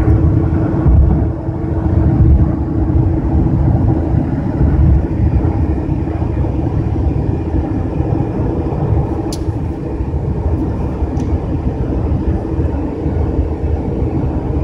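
Steady low rumble of vehicle cabin noise, with a faint steady drone; two faint clicks come about nine and eleven seconds in.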